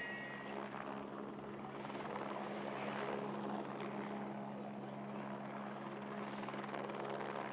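Aircraft noise: a steady low hum of several tones under a rushing roar that swells about two to three seconds in and again near the end.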